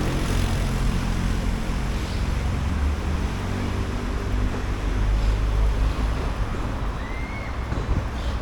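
Street traffic noise dominated by a motor vehicle's engine running close by, a steady low hum under a general wash of city noise.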